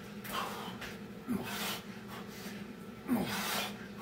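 A man breathing hard between Navy SEAL burpees: strong exhales about a second in and again near the end, each with a short grunt falling in pitch.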